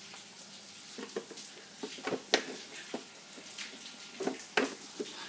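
Scattered clicks and light knocks of a radio-controlled truck's plastic body and parts being handled, the sharpest about two seconds in.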